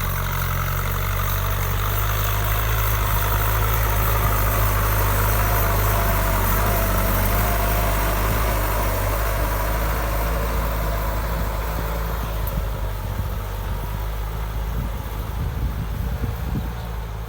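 Kubota M6240 tractor's diesel engine running steadily under load while rotary tilling a wet rice paddy, a little quieter and rougher over the last few seconds.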